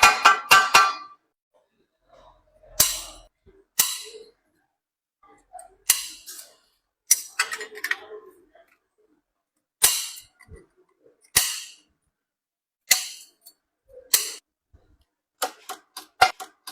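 Hammer blows on copper sheet metal: single sharp strikes with a short metallic ring, spaced a second or more apart, then a quicker run of blows near the end.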